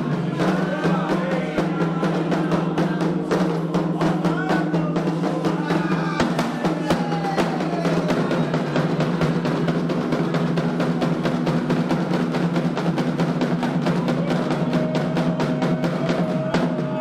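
Atabaque hand drums of a Candomblé ceremony playing a fast, steady rhythm.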